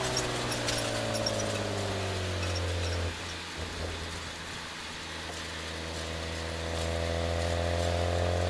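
BMW E36 325is straight-six engine running at low revs with wind and road noise on an outside-mounted camera. The engine note falls as the car slows at the start, drops in level about three seconds in, then climbs gently near the end.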